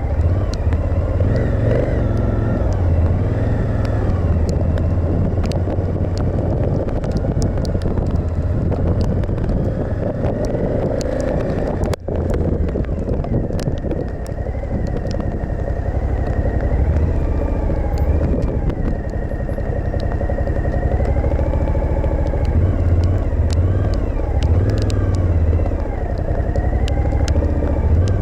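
Suzuki V-Strom 1050XT's V-twin engine running under way, its revs rising and falling as it is ridden, with wind rush. The sound dips sharply and briefly about twelve seconds in.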